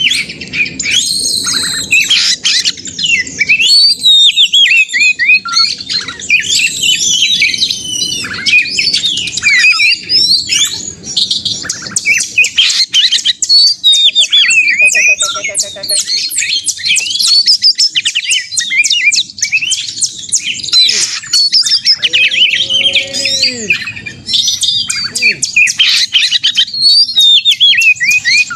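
Oriental magpie-robin (kacer) singing nonstop and loudly in agitated, fighting-mood song, with varied sweeping whistles and long runs of fast, harsh chattering notes.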